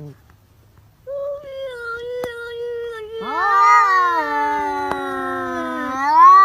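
A cat yowling: long, drawn-out meows that rise and fall in pitch, starting about a second in, with a louder rising call about three seconds in and another near the end.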